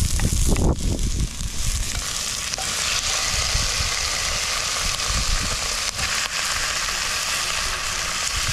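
Onions and chicken pieces frying in a cast-iron potjie pot over braai coals, a steady sizzle that fills out about two seconds in.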